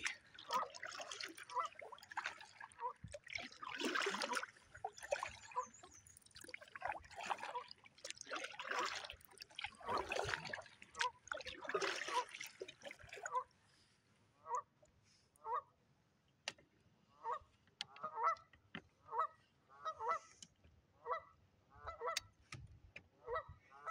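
Geese honking, a series of short calls about one a second, clearest in the second half. Water splashes in the first half.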